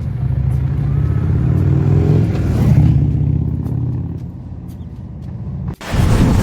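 Jaguar V12 engine running, revved up about two seconds in and easing back down. The sound cuts off abruptly near the end and a rushing noise takes over.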